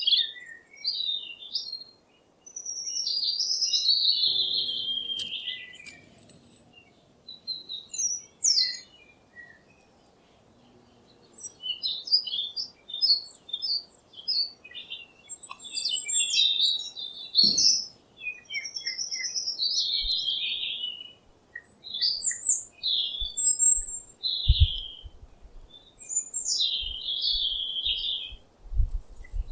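Small birds chirping and singing in quick, warbling phrases, with brief pauses between bursts. There is a single sharp click midway and a few low thumps near the end.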